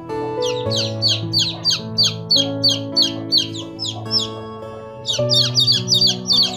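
A bird chirping over and over in short, high, sweeping calls, about three a second, with a denser run near the end. Gentle background music with held chords plays under it.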